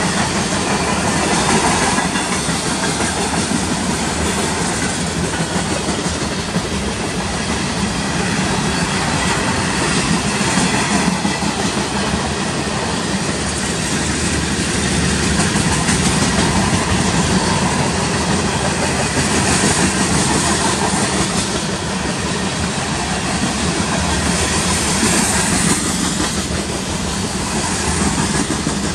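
Freight cars of a mixed freight train (tank cars and boxcars) rolling steadily past at speed, steel wheels running on the rails.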